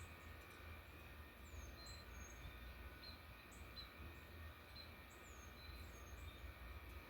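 Faint, short high-pitched bird chirps and call notes, scattered about one a second, over a steady low rumble.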